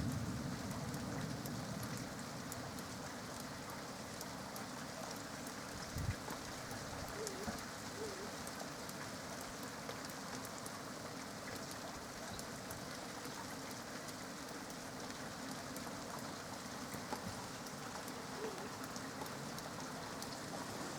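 Steady rain falling, with a dense patter of drops on surfaces. A low rumble dies away over the first couple of seconds, and a single dull thump comes about six seconds in.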